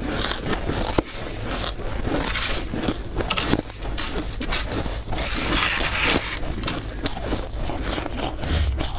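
Freezer frost being scraped and crushed: a dense run of crunching and crackling with many small sharp clicks, and a longer scraping hiss about five seconds in.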